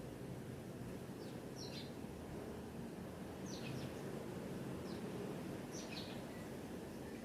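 Bird chirping: short chirps that fall in pitch, in four small bunches a second or two apart, over a steady low outdoor rumble.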